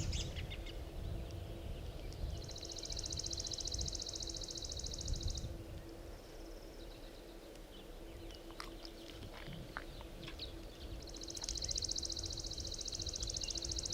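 A songbird singing a rapid, dry, high-pitched trill twice, each lasting about three seconds.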